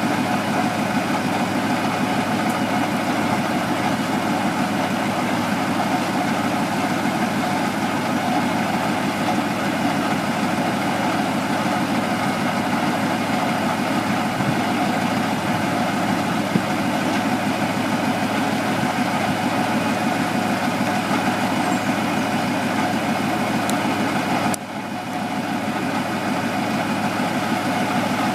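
Truck engine idling steadily. There is a brief sudden drop in level about 25 seconds in.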